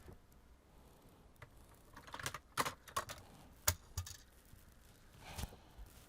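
Light, irregular clicks and taps of small tools and parts handled on a workbench, clustered in the middle, with a softer rustle near the end.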